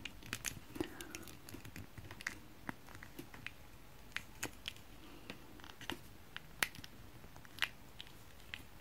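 Faint, irregular clicks and taps of small plastic toy parts being handled and pressed together to snap them into place.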